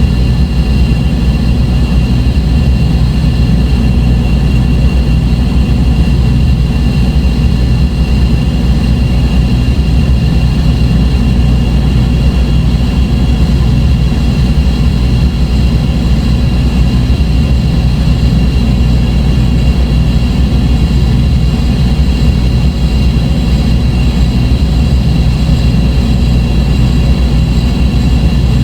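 Dark ambient drone music: a loud, steady low rumble with thin sustained high tones held above it, unchanging throughout.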